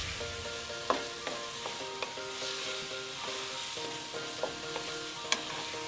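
Chicken pieces sizzling as they fry in a pot of tomato, onion and curry-powder masala, stirred with a wooden spatula that knocks sharply against the pot several times.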